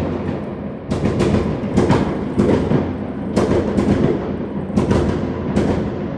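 Fireworks exploding: a string of sharp bangs at irregular intervals, about nine in six seconds, some in quick pairs, each with an echoing tail.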